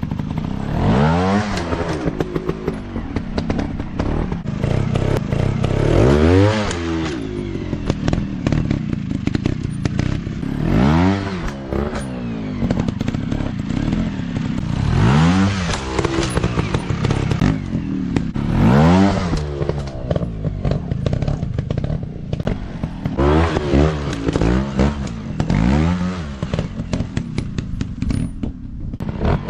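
Small single-cylinder four-stroke dirt bike engine revving in repeated bursts. The pitch climbs and drops every few seconds as the throttle is opened and shut, over a continuous low engine note.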